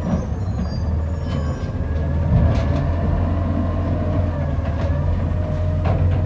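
Garbage truck engine running with a steady low rumble, a whine rising over it partway through, and a few light clicks.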